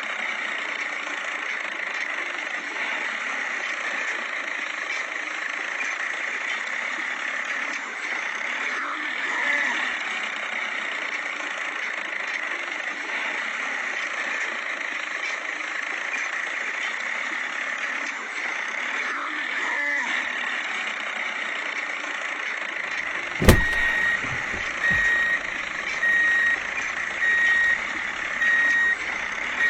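A steady whirring noise, then a sharp click about three-quarters of the way through, after which a reversing alarm beeps about once a second.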